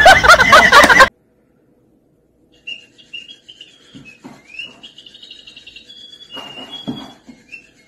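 A loud burst of music and tones cuts off about a second in. After a short silence come faint, high, short chirps and peeps from a small bird, lasting to the end.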